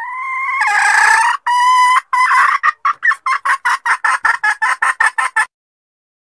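Junglefowl hen calling: a long drawn-out note that rises in pitch, a shorter note, then a run of quick clucks, about five a second, that stops abruptly about five and a half seconds in. It is the hen's lure call used to draw a wild junglefowl cock out of hiding.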